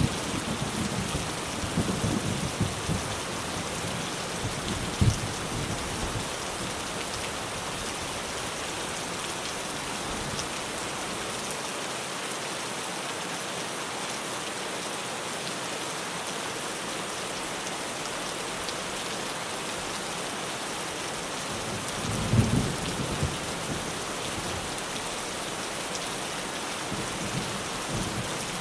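Steady heavy rain drumming on a tin roof, with low thunder rumbles dying away over the first few seconds and another short rumble about three-quarters of the way through.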